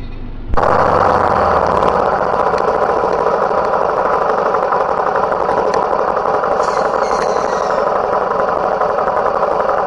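A motor vehicle's engine running steadily and loudly, starting abruptly about half a second in.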